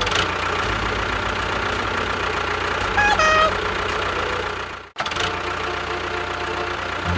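Engine running steadily, with a short stepped tone about three seconds in, and a sudden cut just before five seconds, after which it carries on.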